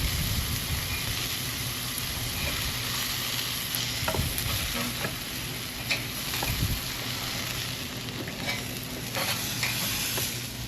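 Thick meat searing on a hot grill, sizzling steadily, with a few light clicks scattered through.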